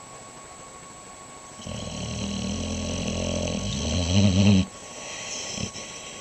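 A sleeping dog snoring. One long snore of about three seconds starts a little way in, grows louder toward its end and cuts off suddenly, then a quieter, shorter one follows.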